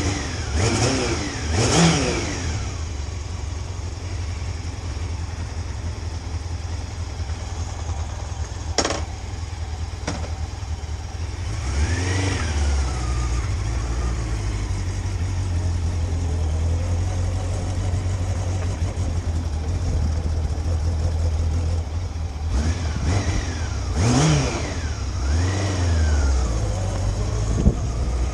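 Motorcycle engine revving up and dropping back through gear changes while riding, over a steady low rumble. The revs rise and fall a few times near the start, once about twelve seconds in, and several times near the end.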